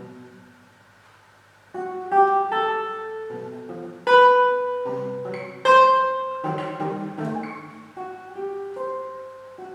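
Solo classical guitar playing: a quiet stretch of fading notes, then about two seconds in loud plucked notes and chords that ring on, with the hardest strokes around four and six seconds in.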